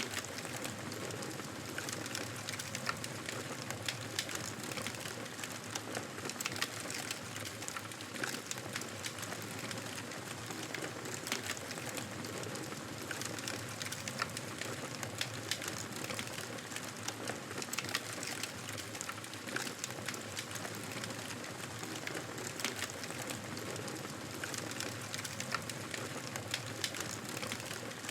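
Wood fire in a fireplace crackling: a steady hiss with frequent small, irregular pops and snaps.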